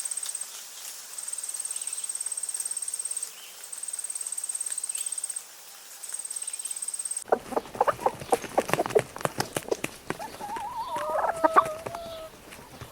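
An insect trilling, a very high pulsed buzz in repeated trains about two seconds long with short gaps. About seven seconds in the sound cuts abruptly to a busy run of sharp clicks, followed near the end by a warbling, gliding bird call.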